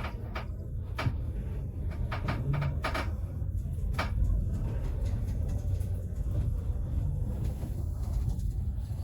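Vintage train carriage rumbling low and steady, with a run of sharp knocks and rattles during the first four seconds, then only the occasional click.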